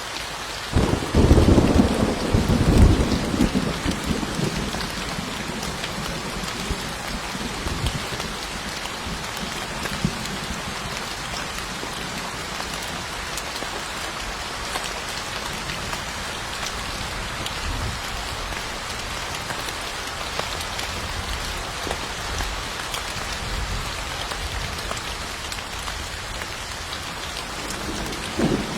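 Steady rain falling, with a loud low rumble of thunder about a second in that dies away over a few seconds; another rumble starts near the end.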